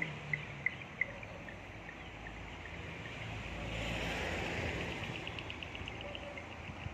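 Evening insects chirping in short, evenly spaced pulses, first a few slow chirps and then a fast pulsing trill near the end. A passing vehicle's rumble swells and fades in the middle.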